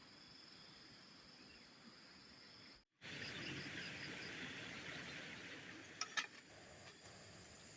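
Faint outdoor ambience of insects chirping in a steady high trill. The background gets louder after an abrupt cut about three seconds in, and two sharp clicks come close together about six seconds in.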